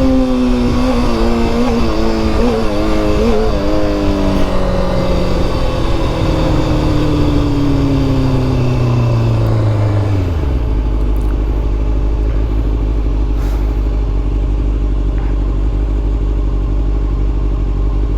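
Motorcycle engine heard from the rider's seat over wind noise. The engine pitch wavers in the first few seconds, then falls steadily as the bike slows, and about ten seconds in it drops to a steady idle.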